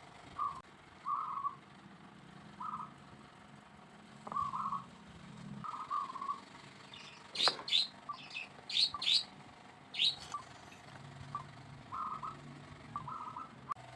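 Birds calling: short, repeated low notes throughout, with a brief run of sharper, higher chirps about halfway through.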